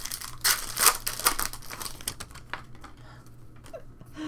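Crinkling and rustling of plastic card packaging as trading cards are handled. It is loudest in the first second and a half, then thins to light clicks and taps.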